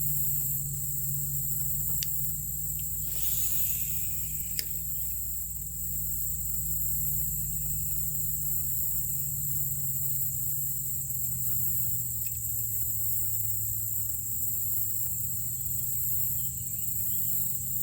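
A steady, high-pitched chorus of insects, crickets or the like, over a low steady hum, with a few faint clicks and a brief rustle about three seconds in.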